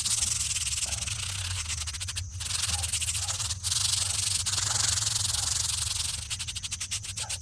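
Stiff cleaning brush scrubbing the weathered face of an old gravestone, a steady rapid scraping with brief breaks. Near the end it turns into separate quick back-and-forth strokes.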